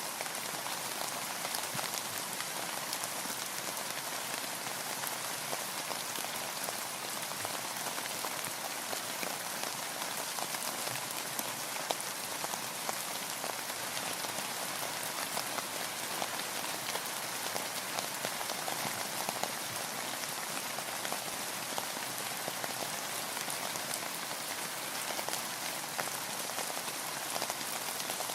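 Steady rain falling on a boat, with many individual drops ticking on its hard surfaces. The downpour is even throughout, with no pauses or swells.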